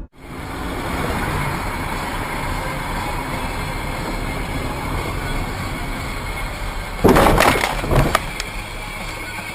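Steady road and engine noise of a car driving, heard from a dash camera. About seven seconds in comes a loud, harsh noisy burst lasting under a second, followed by a second, shorter one.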